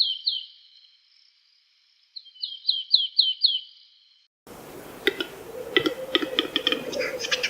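Songbird singing two phrases, each a quick run of about five or six repeated high notes that slur downward, with a pause between them. A little past halfway the sound cuts to a different, noisier recording full of rapid chirps from one or more birds.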